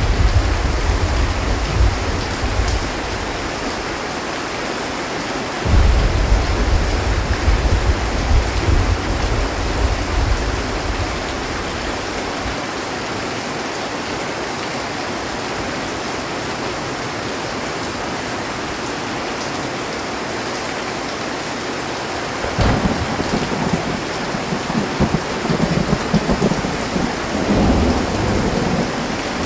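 Heavy rain falling steadily on a metal roof, with thunder: a rumble fading in the first few seconds, a second long rumble starting about six seconds in, and a sharp crack about three-quarters of the way through that rolls on in rumbles to the end.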